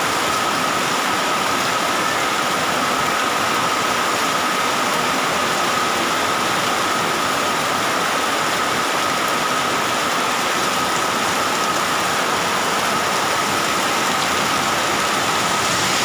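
Heavy tropical rain falling steadily, an even rushing hiss that does not let up.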